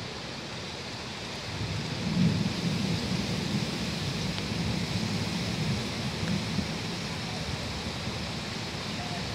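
Steady rain falling. A deep rumble swells about two seconds in and slowly dies away over several seconds.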